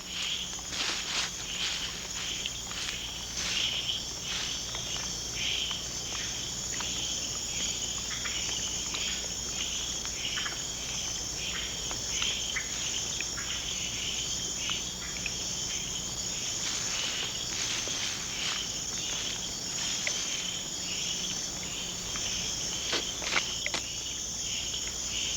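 Night-time rainforest chorus: insects trill steadily at a high pitch, with many short chirping and clicking calls scattered through it, such as tree frogs give at a breeding pool.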